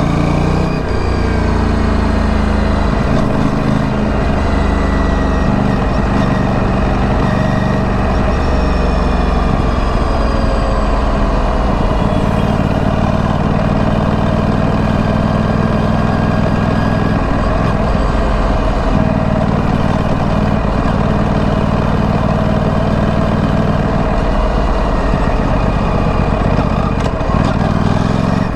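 Stock exhaust of a 2025 Aprilia Tuono 457's parallel-twin engine running at a low, steady engine speed, with little change in pitch.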